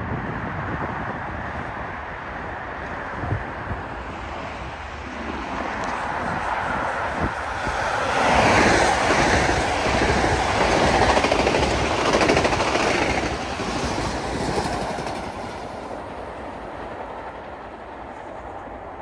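Metro-North M8 electric multiple-unit commuter train approaching and rolling past, its wheels rumbling on the rails. The sound builds to its loudest about eight to thirteen seconds in, then fades.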